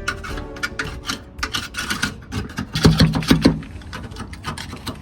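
Hand scraping on the underside of a car's steel floor pan, taking off old coating in quick, irregular scratchy strokes. The strokes are loudest about three seconds in.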